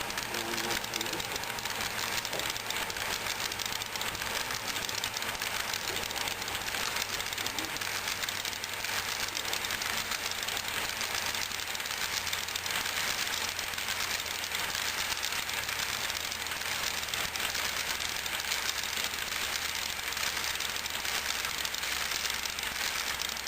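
Model train running on the layout's track: a steady rolling rattle of small wheels over rail, with a low steady hum underneath.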